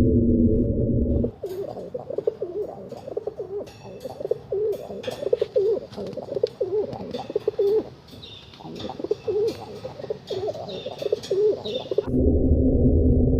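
Pigeons cooing: repeated low, wavering coos with scattered sharp clicks and a few higher chirps. It starts about a second in and cuts off suddenly near the end. Before and after it there is a low droning sound.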